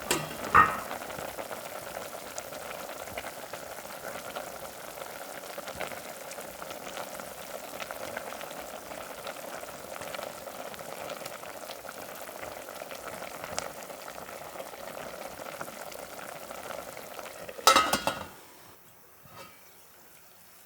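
Udon broth boiling hard in a covered clay pot, a steady bubbling hiss. Near the end a brief loud clatter, after which the boiling sound drops away.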